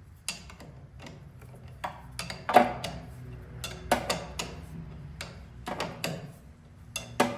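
A wrench tightening a banjo bolt on a tractor's fuel line: a dozen or so sharp metal clicks and clinks at an uneven pace, in small groups.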